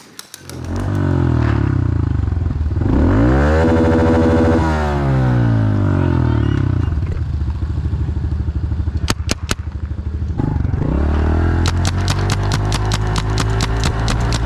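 Pit bike engines revving and riding hard, their pitch rising and falling as the bikes speed up and slow down, with a few sharp cracks about nine seconds in.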